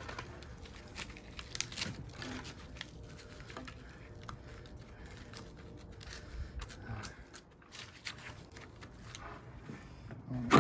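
Faint, scattered clicks, taps and rustles of metal parts and copper winding being handled and pulled apart while a welder is stripped for scrap.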